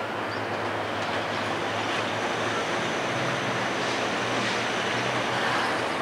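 Three-car Union Pearson Express diesel multiple-unit train departing: a steady low engine hum over an even wash of running noise, the hum growing a little stronger partway through.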